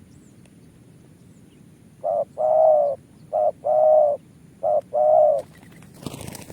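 Spotted dove cooing: three phrases, each a short note followed by a longer, slightly falling one, starting about two seconds in. A broad rustling noise starts near the end.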